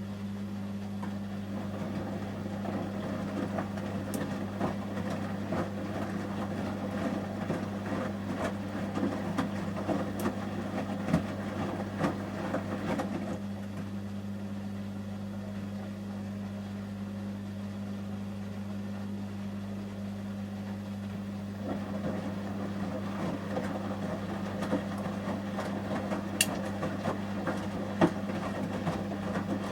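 Samsung front-loading washing machine in the heating stage of a wash: the drum turns and tumbles the wet shirts, with light knocks, over a steady hum. The tumbling stops for a few seconds about midway and starts again about 22 seconds in.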